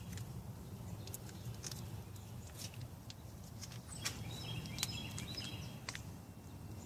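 Quiet outdoor background with scattered small clicks and taps of hand work on a car battery terminal, and a bird chirping briefly about four to five seconds in.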